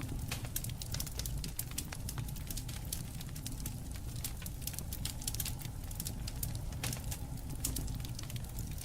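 Wood fire crackling, with frequent sharp pops and snaps of varying loudness over a low steady rumble.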